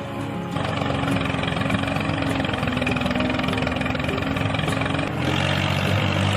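An engine idling steadily with a fast, even putter.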